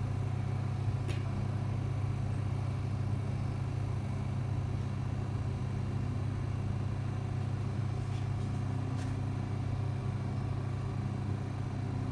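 An LCD vacuum laminating machine running with a steady low hum while it bonds a screen to its glass, with a couple of faint clicks.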